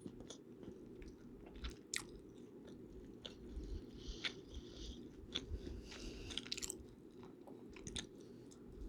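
Close-miked chewing and biting, with irregular wet mouth clicks and smacks, over a steady low background noise.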